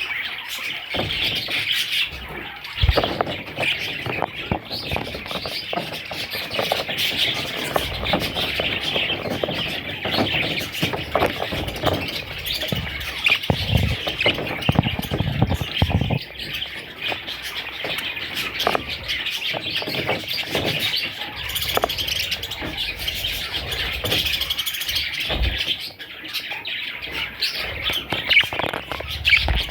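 Budgerigars chirping and chattering continuously, many calls overlapping, with scattered short knocks and thumps among them.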